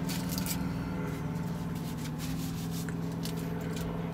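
A truck's engine idling with a steady low hum, with a few soft clicks and rustles over it.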